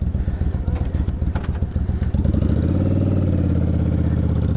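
Yamaha V-Star 1100 Classic's air-cooled V-twin idling with a pulsing beat, then its note rises and steadies about two seconds in as throttle is given.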